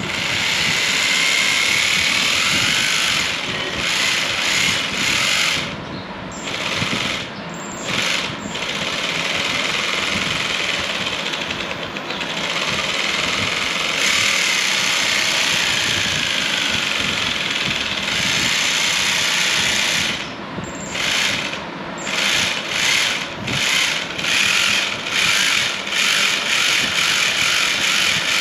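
Small brushless motor driving a 3D-printed plastic gearbox, running with a loud gear noise. It runs in long stretches at first, then starts and stops in many short bursts toward the end.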